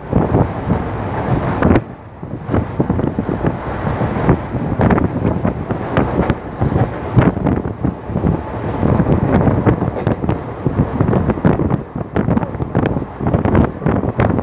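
Wind buffeting the microphone in irregular gusts, held out of the door of the 22684 Lucknow–Yesvantpur Superfast Express running at speed, over the running noise of the coaches' wheels on the rails.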